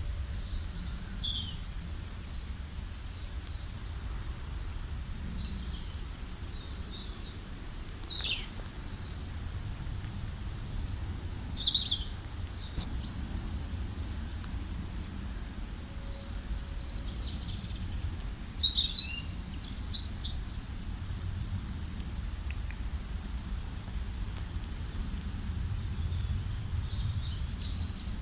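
Several songbirds chirping and calling on and off in short high notes and quick downward sweeps, with a busier flurry about two-thirds of the way through, over a steady low rumble.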